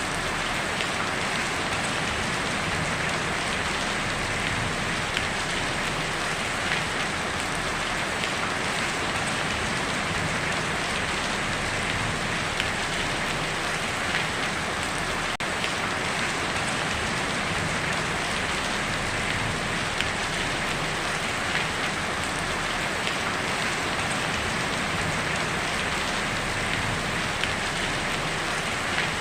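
Heavy rain on a tin roof, a steady dense patter with scattered sharper drop ticks.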